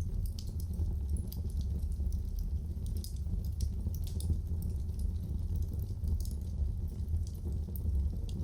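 Wood fire crackling: irregular small pops and snaps over a steady low rumble of burning.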